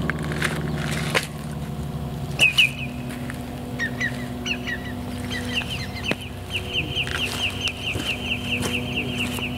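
A bird calling: a few separate short chirps, then from about halfway a quick run of chirps, about four a second. A steady low hum runs underneath.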